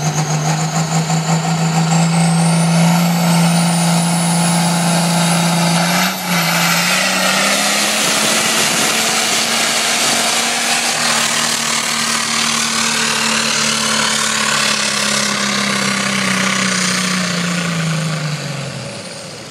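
A Farmall 1206 pulling tractor's engine running hard at high revs under load during a pull, with a high whine rising over the first few seconds. The engine note steps up slightly about six seconds in, holds steady, then winds down near the end.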